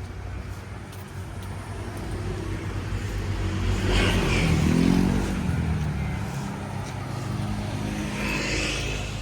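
A motor vehicle passes close by, its engine note swelling and then dropping in pitch as it goes past about four to five seconds in, over a steady low traffic hum.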